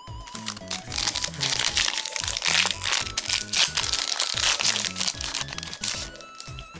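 Foil booster pack crinkling and tearing as it is opened, a dense run of crinkling from about half a second in that dies away near the end, over background music.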